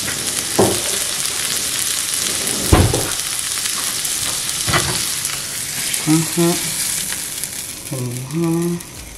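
Diced sausage and vegetables sizzling steadily in a cast iron skillet, with a few sharp knocks of a utensil against the pan. Near the end there are two short pitched sounds as the food is moved into the second skillet, and then the sizzle drops away.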